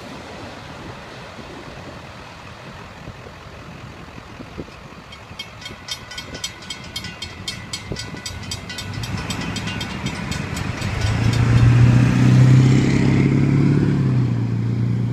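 Freight train rumbling away past a road grade crossing while the crossing bell rings in rapid, evenly spaced strikes for several seconds as the gates lift. Near the end a car engine runs loudly close by as traffic moves off.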